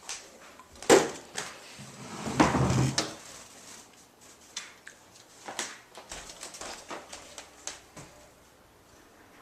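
A sharp knock, then about a second of clattering and scraping, followed by scattered faint clicks and taps, like things being handled in a small room.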